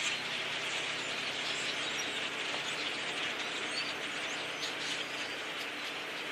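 Huge flock of birds passing overhead: a steady, hiss-like wash of massed chatter, with scattered single chirps standing out.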